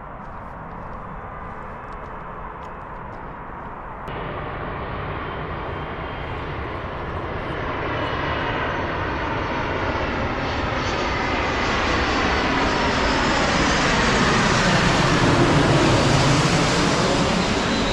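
Airliner on landing approach passing close overhead. Its engine noise builds steadily to a peak about fifteen seconds in and then begins to fall away, with a thin high whine near the end.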